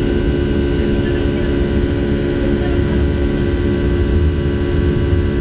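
Steady drone of a Boeing 757-200's jet engines heard inside the cabin: a constant low rumble with a steady hum.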